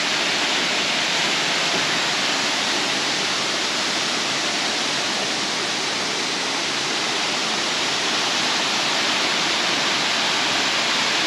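Dangar Falls waterfall: a steady, even rush of falling water.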